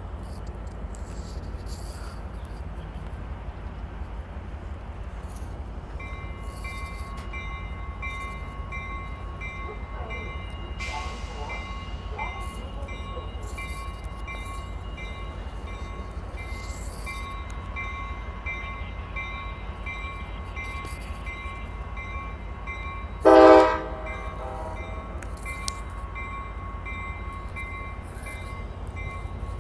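TRE commuter train's diesel locomotive running with a steady low rumble, a high repeating ringing tone joining in about six seconds in. Near the end comes one short, loud horn toot.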